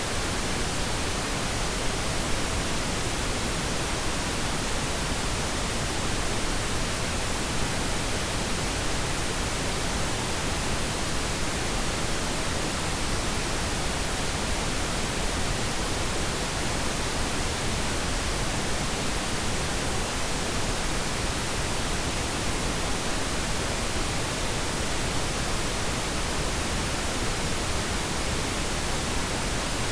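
Steady pink noise: an even, unchanging hiss spread across all pitches, fuller and softer than white noise.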